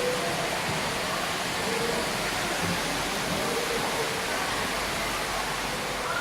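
Steady rushing noise, even and unbroken, with faint voices in the background.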